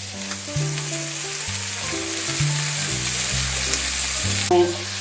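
Sliced bell peppers and mushrooms sizzling in oil in a frying pan, over background music with a stepping bass line.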